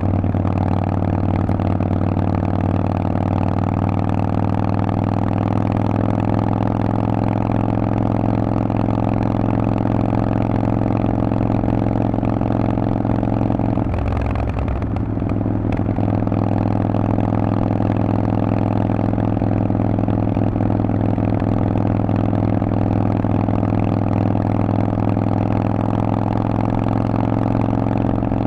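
Harley-Davidson Forty-Eight's air-cooled V-twin running loud through a Vance & Hines aftermarket exhaust, holding a steady pitch, with a brief break in the note about halfway through.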